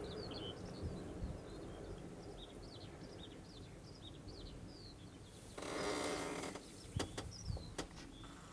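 Small birds chirping again and again over a low, steady rumble of wind on the microphone in open fields. About five and a half seconds in comes a loud burst of noise lasting about a second, then a few sharp clicks.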